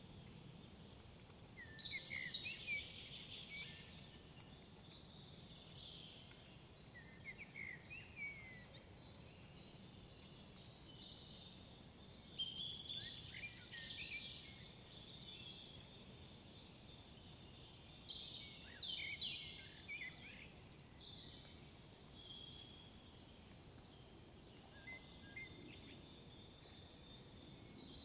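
Songbirds singing: a song phrase of about two seconds repeats roughly every five seconds, each ending in a rapid high trill, over a faint steady background hiss.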